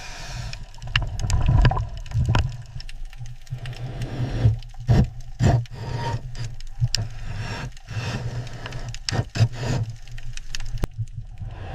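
A steady low mechanical rumble with scattered metallic clanks, rattles and scrapes.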